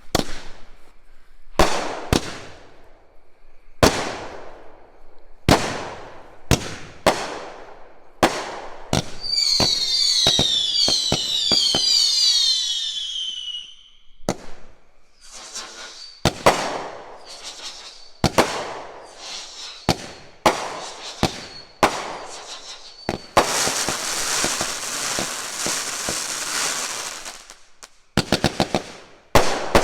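A 200-gram consumer firework cake firing. Sharp reports come one to two seconds apart, with a burst of many falling whistles about ten seconds in. Later there is a long stretch of dense, rapid popping, then a quick volley of shots near the end.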